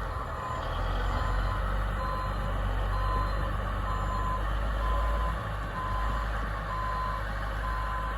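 A dump truck's backup alarm beeping steadily, about one beep a second, over the low rumble of its running engine.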